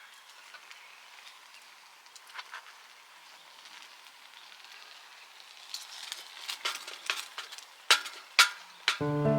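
Cooking over a wood-fire pit with a grill plate: a faint steady hiss with scattered small crackles and clicks, two sharp clicks near the end. Background music comes in just before the end.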